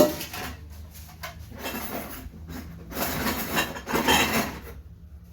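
Household items being handled: a sharp knock, then a few seconds of scraping and clattering, as the cover and cup for a clay water pot are picked up.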